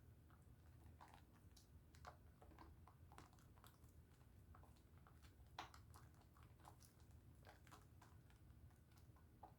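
Pink Dove soap bar being lathered with water: faint, irregular wet clicks and crackles of the suds and soap being worked.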